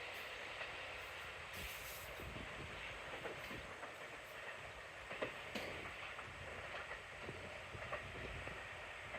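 A departing electric multiple-unit train, a JR 313 series set coupled to a 211 series set, pulling out. It makes a faint, steady rolling noise with scattered light clicks from the wheels and rails.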